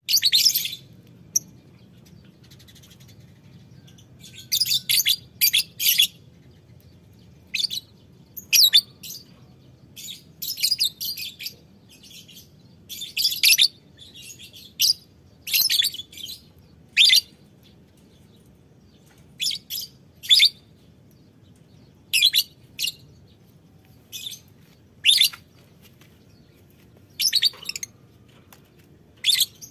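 Lovebirds calling in short, high-pitched chattering bursts, every second or two, over a faint low hum.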